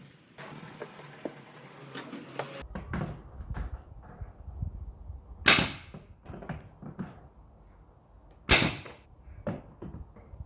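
Two loud, sharp knocks about three seconds apart, with smaller clicks and knocks of handling between them.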